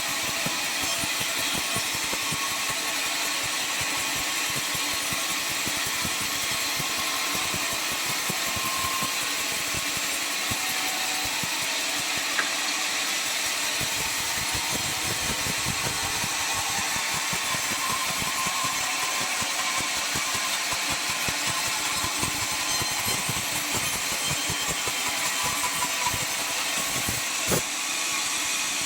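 Circular sawmill running steadily, its blade cutting through an albasia log with an even, hissing whine. There is a short knock partway through and a sharper one near the end.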